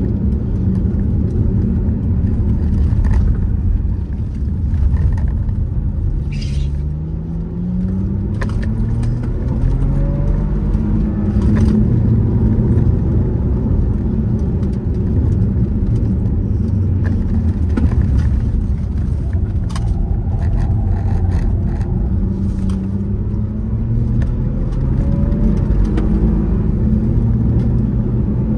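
Car engine under way at speed, its pitch rising as it accelerates about six seconds in and again past twenty seconds, over a steady heavy low rumble.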